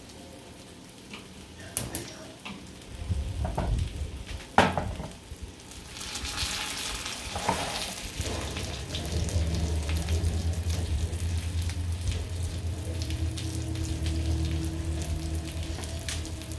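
Food frying in a pan on the stove, with a few sharp knocks of the pan or utensils in the first five seconds. The sizzling swells about six seconds in and carries on steadily over a low hum.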